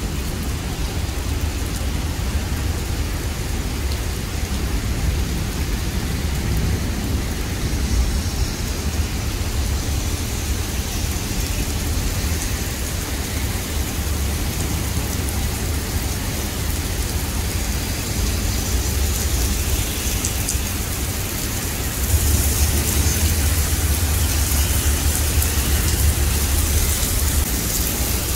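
Heavy rain pelting a wet asphalt road, a dense steady hiss of drops with a low rumble underneath. About three-quarters of the way through, the downpour and the rumble both grow louder.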